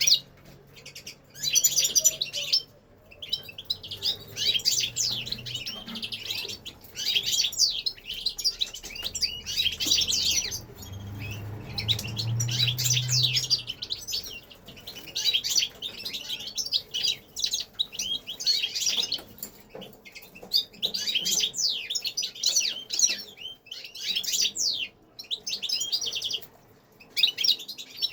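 Caged finches singing: rapid, high twittering phrases from several birds at once, coming in bursts of a few seconds with short pauses between.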